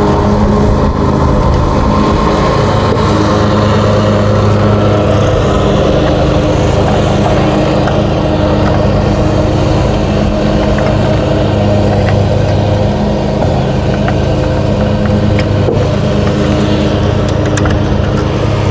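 Lawn mower engine running steadily with a constant drone. A few light clicks come near the end.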